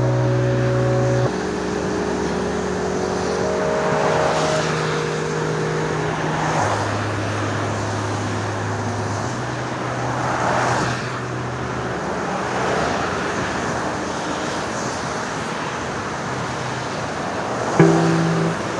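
Cars passing on a wet road: a tyre hiss swells and fades several times over a bed of held, slowly changing music chords. A plucked guitar comes in near the end.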